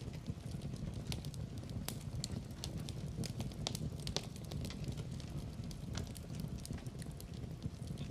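Fireplace fire crackling, with frequent irregular sharp pops and snaps over a steady low rumble of burning.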